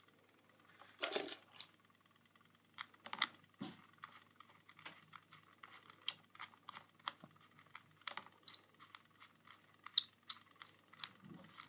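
Irregular clicks and taps of a box fan's plastic parts being handled and fitted back together, growing busier and sharper near the end.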